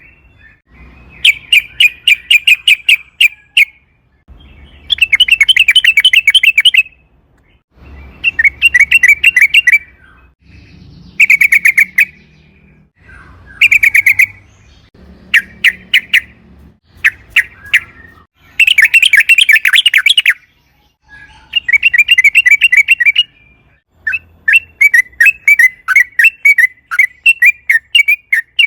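Yellow-vented bulbul (trucukan) singing in loud, repeated bursts of rapid, bubbly chattering notes. Each phrase lasts one to two and a half seconds, with short pauses in between.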